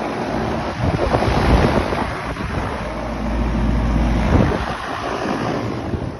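Central air conditioner condenser unit running: a steady rush of fan air, heavily buffeted by wind on the microphone, with a low rumble that swells and eases in gusts.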